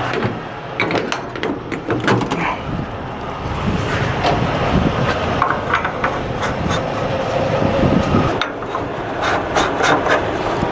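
Scattered clicks and knocks of handling at a diesel pump, over a steady hum of truck-stop engines and traffic.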